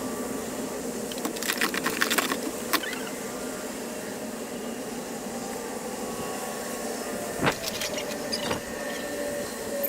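Hand-worked metal parts and tools clicking and knocking now and then over a steady hum: a quick run of clicks about a second in, and single knocks later.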